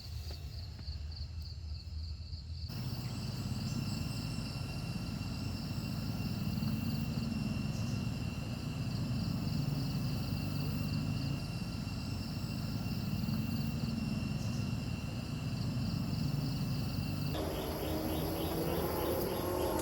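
Insects calling in steady, high, pulsing trills over a low rumble. Near the end a rising engine-like whine comes in.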